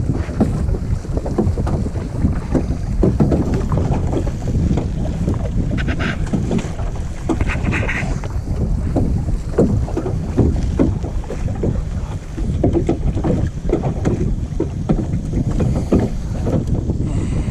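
Wind buffeting the microphone as a loud, steady low rumble, with water splashing and slapping irregularly against a kayak and paddle.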